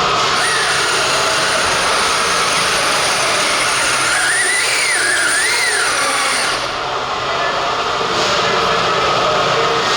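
RC pulling vehicle's motors running hard under load with a steady high-pitched whine, which cuts off about two-thirds of the way through.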